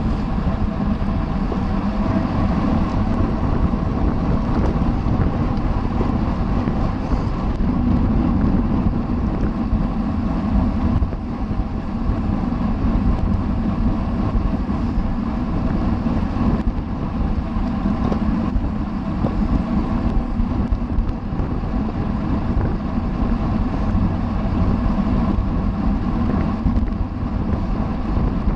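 Wind rushing steadily over the microphone of a camera carried on a racing bicycle at criterium speed, with a steady hum underneath.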